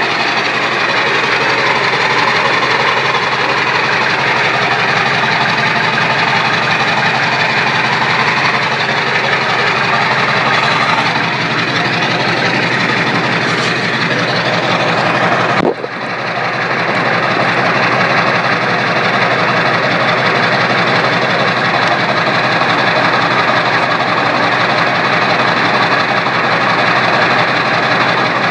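Engine running through a 4-inch straight-pipe exhaust, with the whine of a turbocharger that is open to the air, not hooked up to the intake. The level dips sharply for a moment about halfway through, then comes back.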